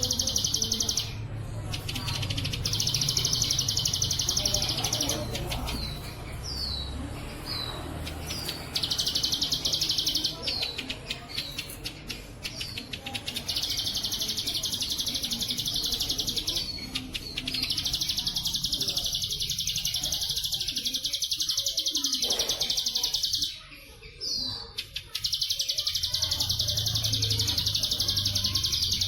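Bren Cililin cicada call on a masteran track: long, high, rapid buzzing trills lasting a few seconds each and repeated about five times, with short high chirps falling in pitch in the gaps between them.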